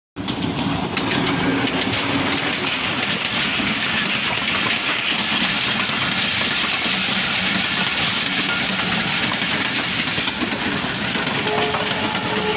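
A diesel-hauled passenger train passing close by at running speed, the locomotive and then its coaches: a steady loud rush of wheels on rails with rattling coaches.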